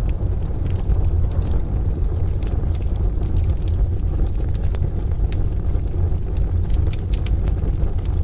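Wood fire in a stove crackling, with frequent sharp pops and snaps over a steady low rumble.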